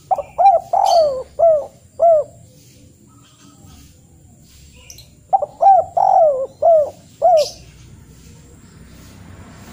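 A bird calling: two phrases a few seconds apart, each a quick run of about five short notes that rise and fall in pitch.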